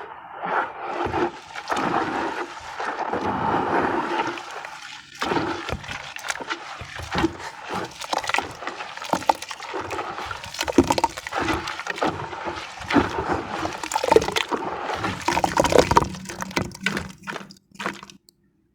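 Wet sand-cement being crumbled and mashed in water: sloshing and gurgling at first, then from about five seconds in a dense run of small wet crunches and crackles, which stops shortly before the end.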